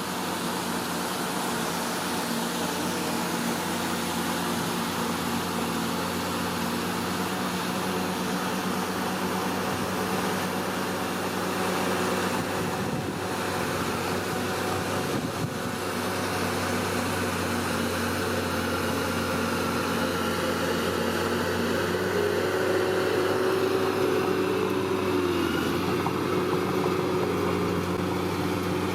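Bulldozer's diesel engine running steadily, its note dipping slightly near the end.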